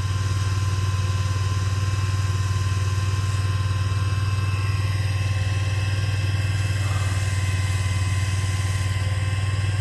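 Vehicle engine idling steadily, a deep even hum.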